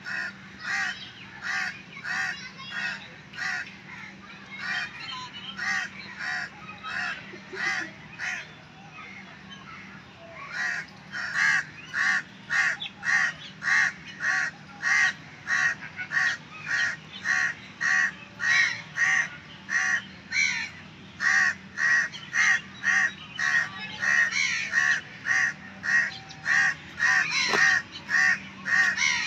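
A bird calling over and over in an even series, about two calls a second, getting louder about ten seconds in.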